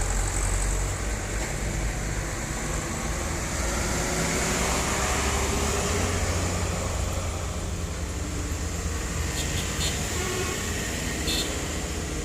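Road traffic with a heavy vehicle's engine running steadily, and a few short clicks near the end.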